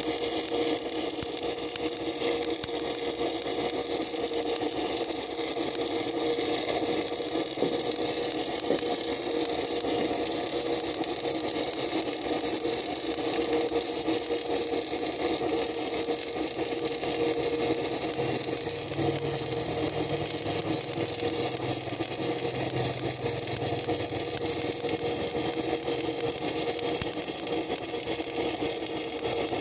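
A motor running steadily with a constant hum, without let-up.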